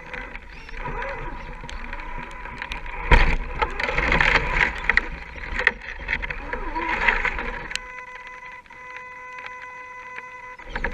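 Radio-controlled scale crawler truck running: a steady high electric whine, with louder stretches of grinding and crackling in the middle.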